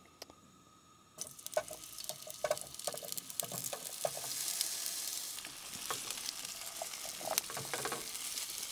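Diced potatoes sizzling as they hit hot olive oil in a nonstick frying pan. The sizzle starts about a second in and swells to its loudest around the middle, with scattered clicks and pops as the cubes drop in and are moved around.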